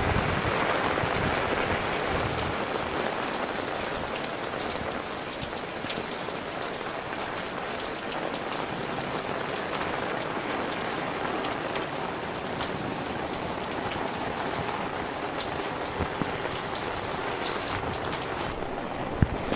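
Heavy rain falling steadily, a dense patter of drops with scattered sharper ticks, slightly louder in the first few seconds.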